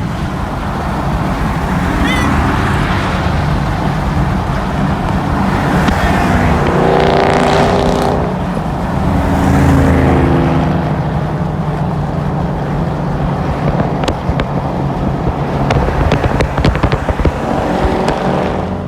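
Car engine sound, loud and continuous, with a car driving past and its engine note rising and falling about seven to ten seconds in.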